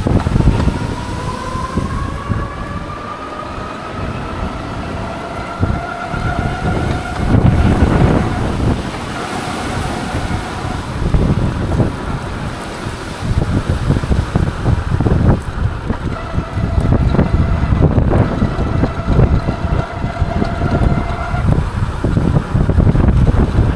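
Heavy wind buffeting on the microphone over the hum of a Lectric XP 3.0 e-bike's hub motor. The motor's whine rises in pitch over the first several seconds as the bike speeds up, then holds steady, drops out for a few seconds in the middle, and returns for a stretch near the end.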